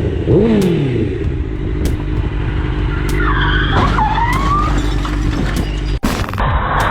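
Car driving, with steady engine and road noise. A high squeal that rises and falls in pitch comes about three to four seconds in, like tyres skidding. Near the end the sound cuts abruptly to another stretch of road noise.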